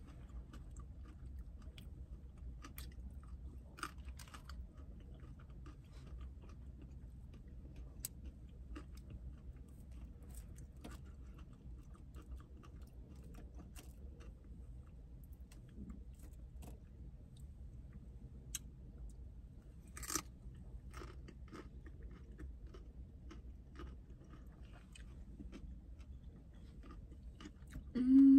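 Close-up chewing of raw broccoli florets, with many small crisp crunches and one stronger crunch about two-thirds of the way through. Near the end comes a short hum, the loudest sound.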